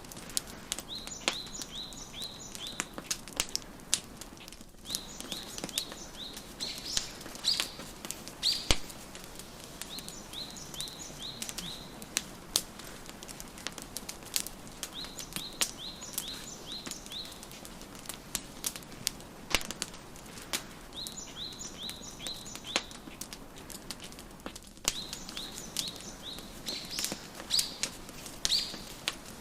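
Wood fire crackling, with frequent sharp pops and snaps, over a soft hiss. A small songbird sings short runs of quick, high, down-slurred chirps, a phrase every few seconds.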